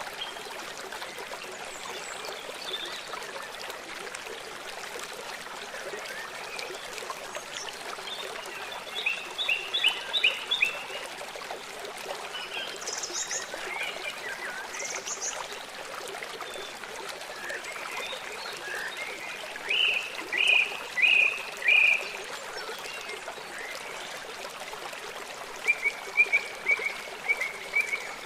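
Wild birds chirping in short runs of quick repeated notes, a few times, over the steady rush of flowing stream water.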